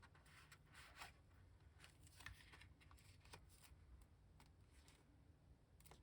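Faint rustling and light tapping of paper and card being handled, a dozen or so short scrapes and ticks scattered through, over a low steady hum.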